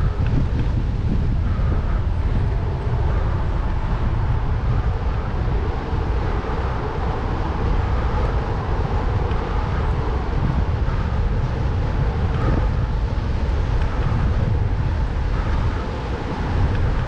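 Strong wind buffeting the microphone while cycling, a steady, loud low rumble.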